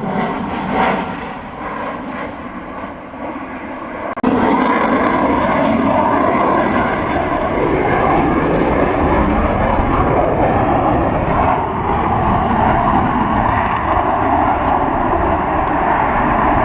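Fixed-wing airplane engine noise, steady and dense, becoming suddenly louder about four seconds in.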